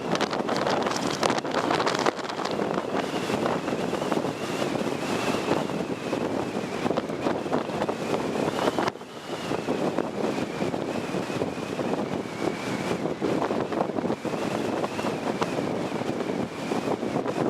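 Truck running flat out at high speed, heavy wind buffeting the microphone over the vehicle's roar, with a thin high whine that wavers in pitch throughout. The noise drops out briefly about nine seconds in.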